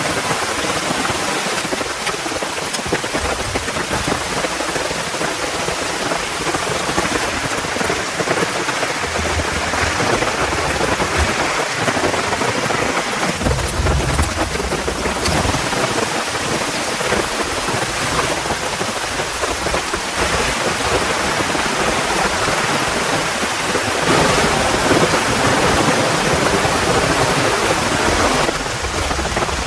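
Heavy rain falling steadily, with low rolls of thunder rumbling twice, about nine and thirteen seconds in.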